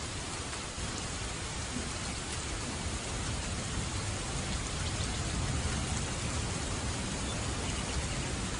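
Steady heavy rain, with a low rumble that grows slightly from about three seconds in.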